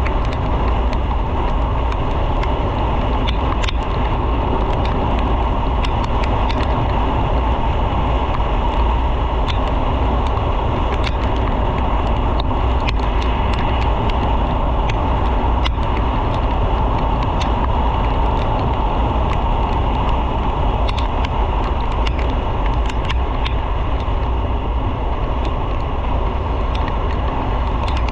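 Steady rush of wind and road noise from a motorcycle underway, with a few faint clicks scattered through it.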